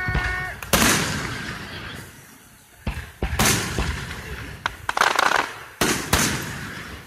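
Aerial fireworks shells bursting: a string of sharp booms with fading, echoing tails, several in quick succession, and a crackling burst about five seconds in.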